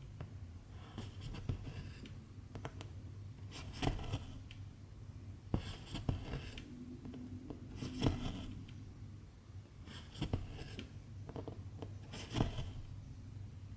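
Cross-stitching: a needle pierces the fabric and silk thread is drawn through, making sharp ticks and short rasping pulls every couple of seconds over a low steady hum.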